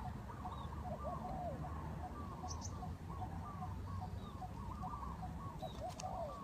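Many birds calling at once: short, rising-and-falling notes overlapping several times a second, over a steady low rumble.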